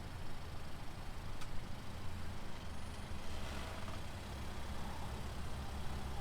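Car engine idling with a steady low rumble, and one faint click about a second and a half in.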